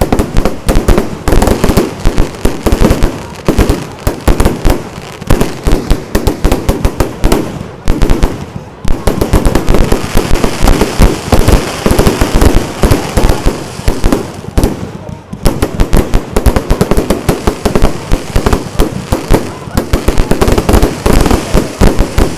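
Fireworks going off in a rapid, dense barrage: many sharp bangs and crackles a second, without a break.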